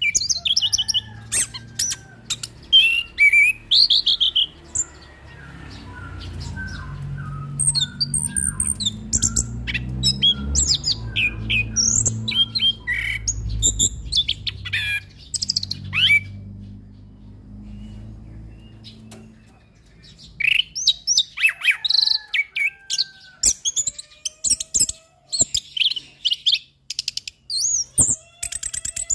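Orange-headed thrush singing a fast, varied song of chirps, whistles and short rattling phrases. The song thins out through the middle, where a low rumble sits underneath, and picks up densely again about two-thirds of the way through.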